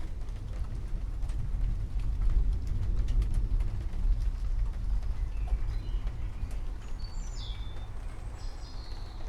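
Distant thunder rumbling low, swelling about two seconds in and then slowly easing off. Birds chirp high above it in the second half, with scattered drips of rain.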